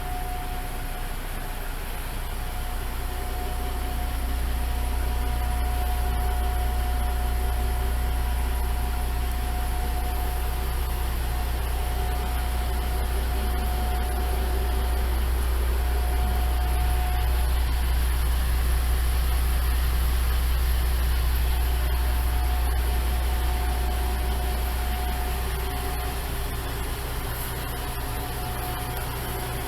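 Diesel engine of a Nagaragawa Railway railcar idling with a steady low drone, swelling slightly and easing again near the end.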